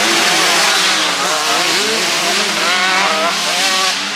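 Motocross bikes revving hard, their engine pitch climbing and dropping again and again as they accelerate and change gear, with several engines overlapping.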